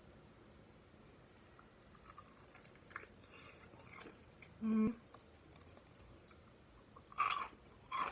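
A person biting and chewing crispy fried chicken skin: scattered small crunches, a short hum of enjoyment just under five seconds in, then two loud crunchy bites near the end.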